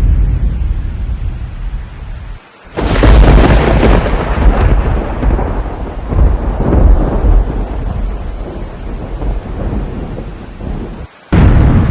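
Thunderstorm: heavy rain over a low rumble, with a loud clap of thunder about three seconds in that rolls on and fades over several seconds. The sound drops out briefly twice.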